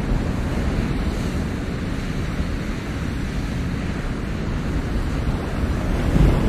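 Ocean waves washing onto the shore in a steady rush, with wind buffeting the microphone; a wave swells louder near the end.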